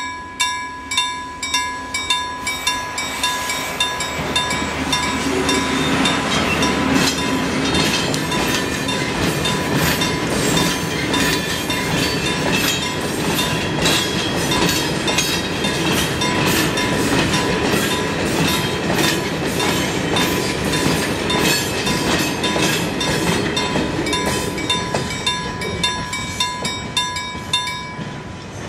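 Level-crossing warning bell ringing about twice a second while a freight train of covered goods wagons rolls over the crossing, wheels rumbling and clattering over the rail joints. The bell stops near the end as the last wagon clears.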